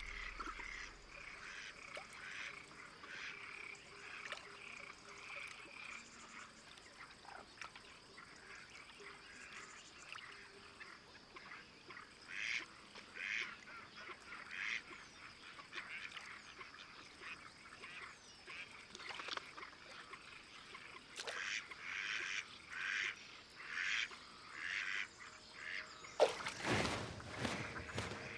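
Water birds calling over and over in short calls, sparse at first and then about twice a second in the second half, with one brief loud rush of noise near the end.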